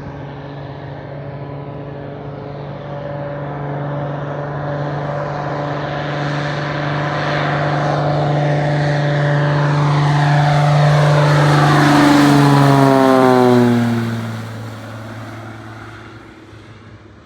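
Propeller floatplane passing close by: the steady drone of its engine and propeller grows louder for about twelve seconds, then drops in pitch as it goes past and fades away.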